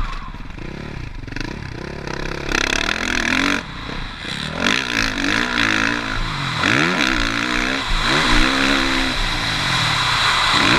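Motocross bike engine revving hard and dropping off again and again as it is ridden around the track, its pitch climbing and falling every second or two.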